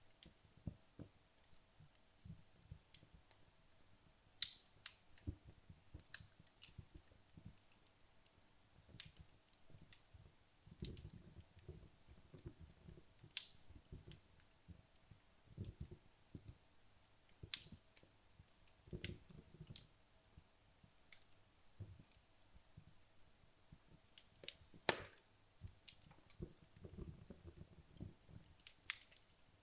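Wood logs burning down in a fireplace: sparse, sharp crackles and pops every second or so, a few much louder than the rest, over soft low crackling from the burning wood.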